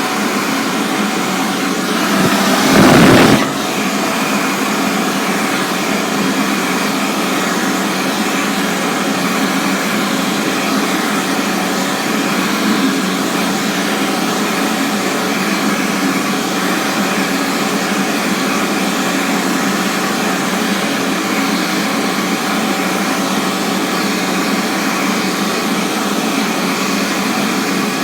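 Bobrick B-750 electric hand dryer running: a steady motor whine and rush of warm air, briefly louder and rougher a couple of seconds in, then even again.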